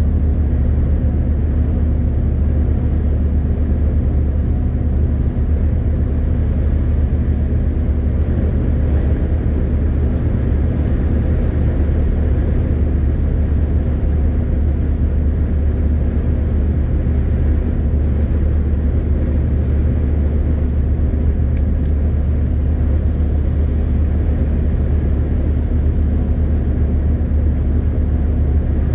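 MAN TGX 18.520 truck's straight-six diesel running at a steady load, heard as a loud, even low drone inside the cab with road noise. A couple of faint clicks come about two-thirds of the way in.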